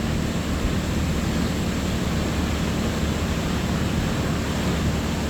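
Steady rush of sea surf with wind on the microphone, an even noise over a constant low rumble.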